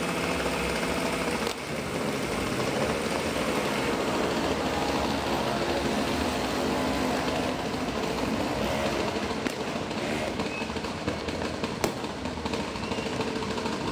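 Dense, unbroken din of distant firecrackers and fireworks going off all over the city, with separate sharp pops standing out in the last few seconds.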